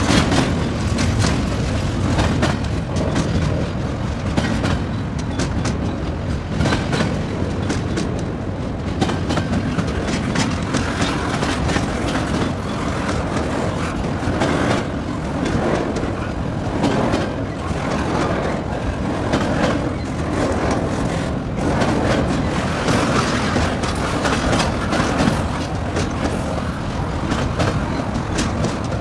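A train rolling past at close range, its wheels clacking over the rail joints in a steady run of clicks over a continuous rumble.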